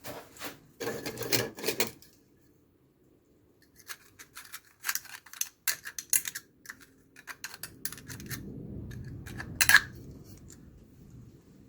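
Irregular clicks, taps and knocks, in short clusters, with a low rumble for a couple of seconds near the end.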